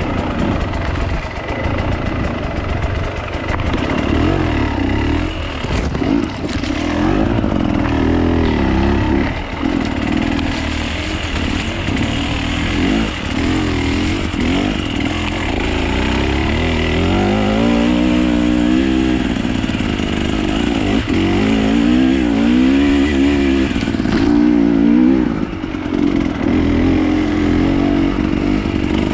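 Enduro dirt bike engine being ridden off-road, revving up and down again and again as the throttle is worked, its pitch rising and falling every second or two.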